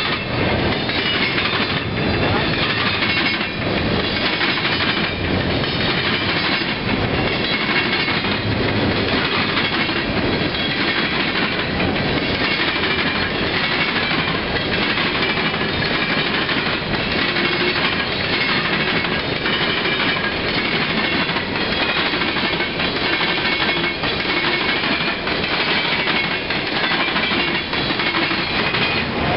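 Freight train's cars rolling steadily past: a continuous rumble and clatter of steel wheels on rail, with irregular clicks as the trucks pass over the rail joints.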